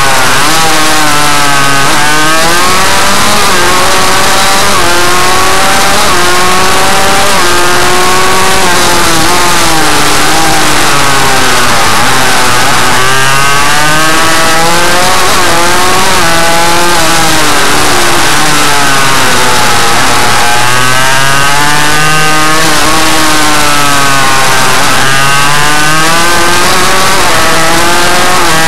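Loud Suzuki RM85 two-stroke single-cylinder engine being ridden, its revs rising and falling again and again as the throttle is worked.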